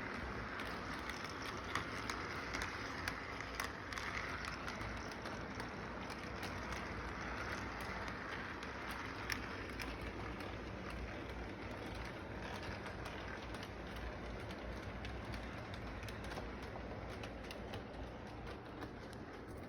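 Model train running on its track: a steady hiss with many light, irregular clicks and rattles, thickest in the first few seconds.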